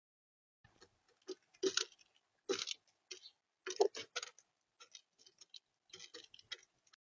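Irregular sharp taps and clicks on a smart bird feeder, a bird pecking at seed right by the camera's microphone. The taps come in small clusters, with the loudest ones near the middle.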